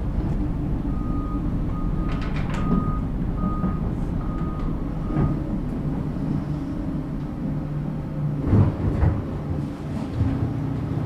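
Excavator's diesel engine running with its travel alarm beeping, a quick string of even beeps for about four seconds that then stops; a few heavy clunks come near the end.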